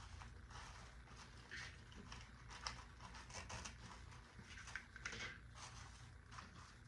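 Faint, irregular rustling and crackling of artificial greenery, plastic leaves and stems handled and pushed into an arrangement.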